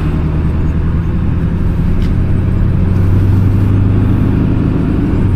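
Vehicle engine running while driving: a steady low drone that gets louder about three seconds in.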